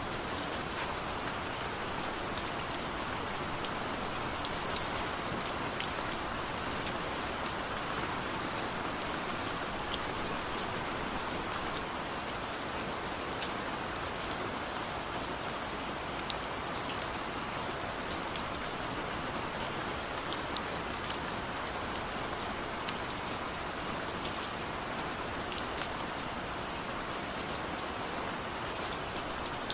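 Steady rain falling on a surface, a continuous hiss with many small drop ticks scattered through it.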